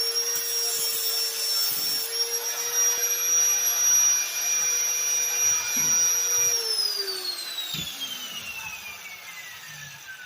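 Electric power tool motor running at a steady high whine, then switched off about six and a half seconds in and spinning down, its pitch falling smoothly as it coasts to a stop.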